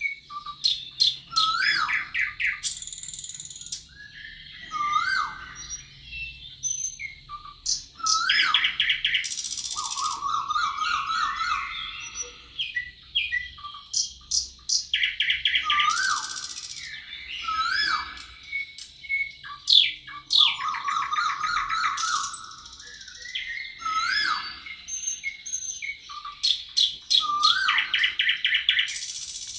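Several songbirds singing and calling at once: short rising whistles repeated every second or two, fast trills and buzzy chirps overlapping throughout.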